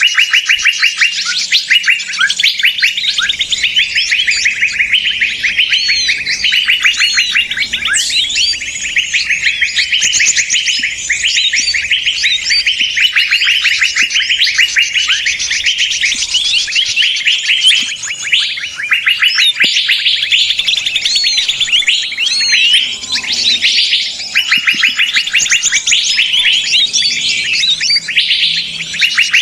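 Bird-lure recording of many small birds calling at once: dense, rapid, overlapping high chirps and trills without a pause, the busy, agitated chatter used to draw wild birds in.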